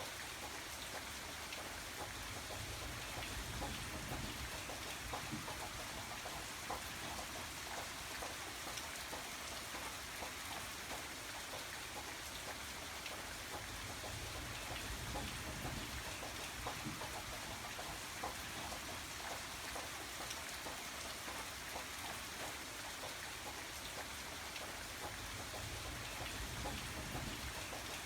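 Steady rain falling on a surface, with individual drops ticking through it and a faint low rumble that swells and fades.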